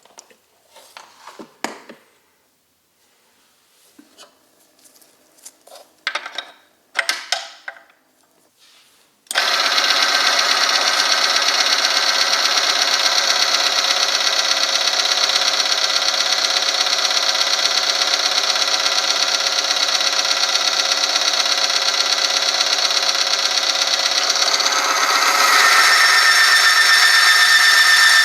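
A few light knocks and rattles, then about nine seconds in the oil-film friction test machine starts abruptly: its electric motor drives a rotating steel part against a steel test sample in the hot engine oil, giving a loud steady grinding run. Near the end it gets a little louder and a high squealing tone comes in as the friction rises.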